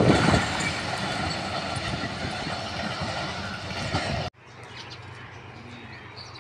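Passenger train coaches rolling away down the track just after passing, the wheel-on-rail noise fading steadily as the train recedes. The sound cuts off abruptly about four seconds in, leaving a much quieter background with a low steady hum.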